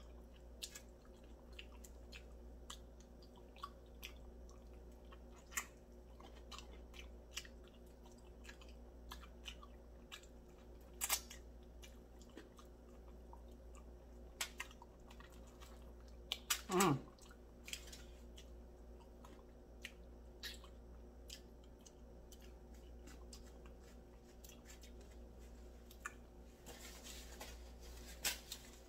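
Close-up chewing and biting of crispy fried chicken: scattered crunches, crackles and wet mouth clicks. About seventeen seconds in, a short hum falls in pitch.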